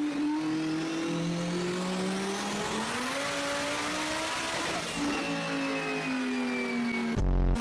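Car engine accelerating hard through the gears, its pitch climbing and then dropping back at each shift, with a higher whine falling in the last couple of seconds. A short deep thump comes near the end.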